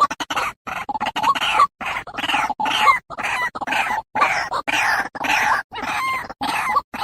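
White-breasted waterhen calling over and over with harsh, croaking notes, about two a second, broken by abrupt silent gaps.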